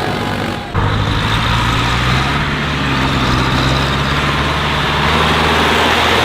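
Tractor engine running steadily, briefly dropping out about a second in before running on.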